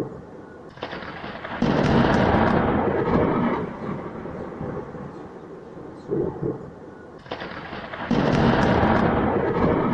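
Thunder: two peals, one breaking about a second in and another about seven seconds in, each a sharp onset followed by a loud rumble that rolls for a couple of seconds and dies away.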